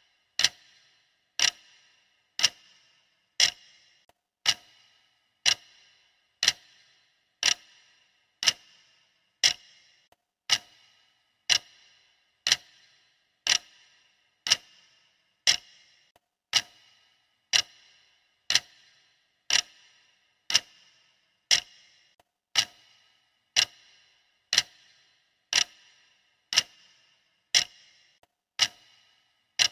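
Clock ticking steadily at one tick per second, each tick a sharp click with a short ringing tail.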